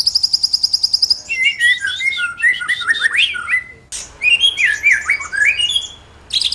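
A songbird singing: a fast, high trill, then a varied run of quick whistled notes sliding up and down, broken by a single click about four seconds in, with the fast trill starting again at the end.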